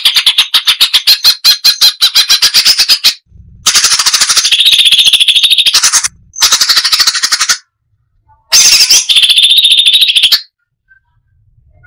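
Cucak cungkok songbird singing in four fast phrases of rapid, closely packed notes, the first a quick rattle of repeated notes about ten a second, with short breaks between phrases and a pause near the end.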